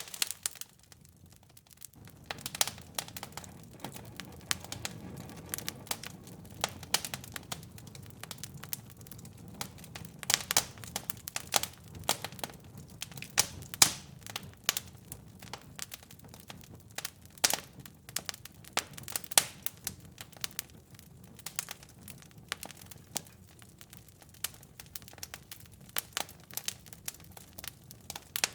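Fire in a fireplace crackling: irregular sharp pops and snaps, with a low steady rumble beneath them that comes in about two seconds in.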